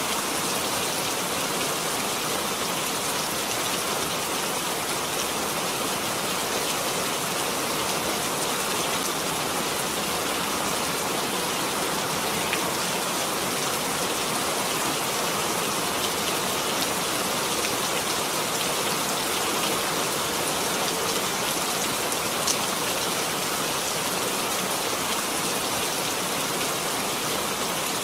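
Steady rain falling, an even hiss with a few faint individual drop ticks here and there.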